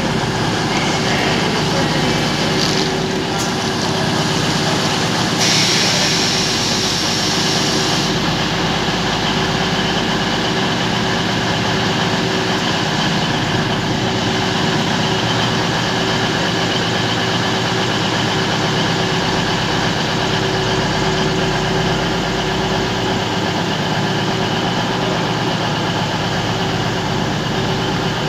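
Passenger train standing at a station platform, its machinery giving a steady low running hum. A hiss rises over it for about two and a half seconds, starting about five seconds in.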